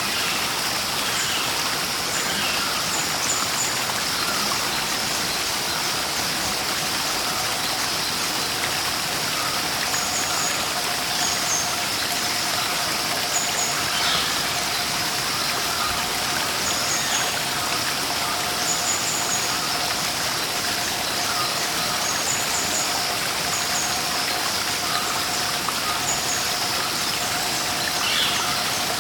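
Steady rushing water of a waterfall, with small birds giving short, high chirps every second or two over it. A faint steady tone joins about six seconds in.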